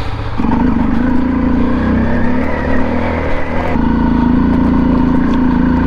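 Honda CRF 250L's single-cylinder engine running steadily after a cold-morning start, with a shift in its sound about four seconds in.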